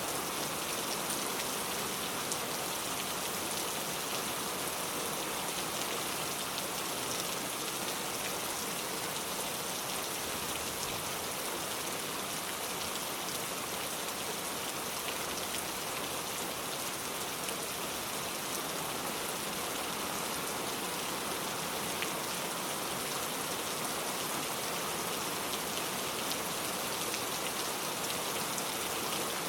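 Steady heavy rain falling, a dense even hiss of many drops hitting surfaces.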